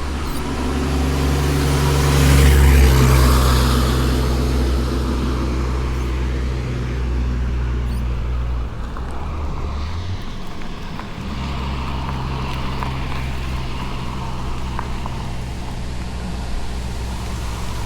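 A car coming up from behind and passing close by, its tyre and engine noise loudest two to three seconds in. A steady low engine hum carries on afterwards, dropping out briefly about ten seconds in.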